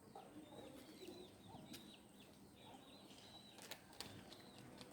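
Faint bird chirping: a run of short, high chirps repeating through the quiet, with two sharp clicks near the end.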